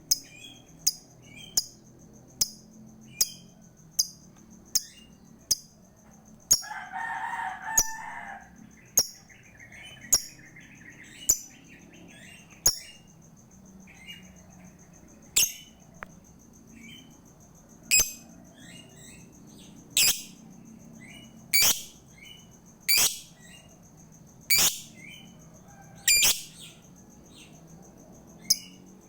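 Lovebird giving sharp, shrill chirps, repeated about once a second and later in quick clusters, with one longer, lower call about seven seconds in. This is a trigger call played to provoke lovebirds that are reluctant to sing.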